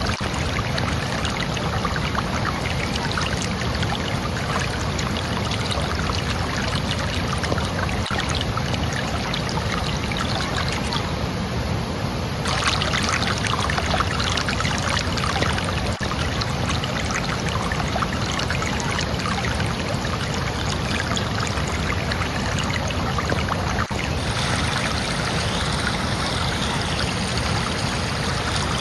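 Flowing water of a stream, a steady rushing and splashing; the sound shifts in character about twelve seconds in and again about 24 seconds in.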